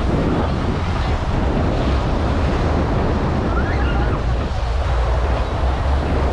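Wind buffeting the microphone, a steady low rumble, over the continuous wash of ocean surf.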